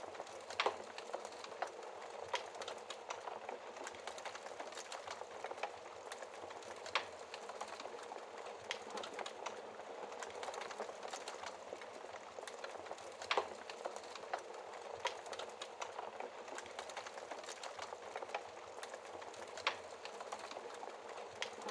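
Wood fire burning in a fireplace: a steady soft hiss of flames with irregular crackles and sharp pops, a few of them louder.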